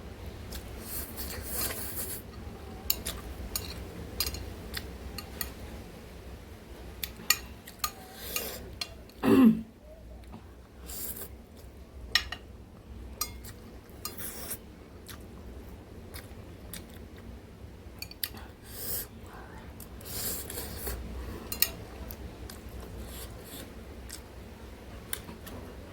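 Close-miked eating of ramen noodles and boiled eggs: chewing, with many sharp clicks of utensils against a bowl. There is one short, louder mouth or throat sound, falling in pitch, about nine seconds in.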